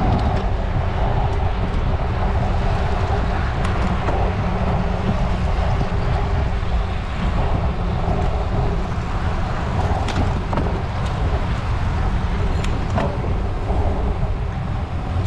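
Steady wind rush buffeting the microphone, mixed with road noise from a bicycle riding along, with a few faint clicks.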